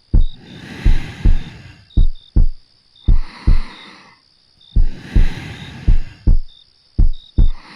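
Steady heartbeat heard close up, a low double thump (lub-dub) repeating about once a second, with soft slow breaths rising and falling between the beats.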